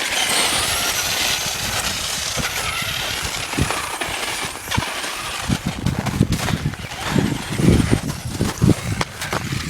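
Small radio-controlled toy truck's electric motor whining, its pitch wavering up and down with the throttle for the first few seconds. Low thumps and knocks follow in the second half.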